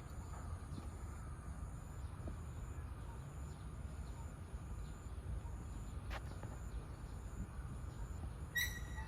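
Outdoor ambience: a steady low rumble with faint, high, regularly pulsing insect-like chirping, and one short, sharp high call near the end.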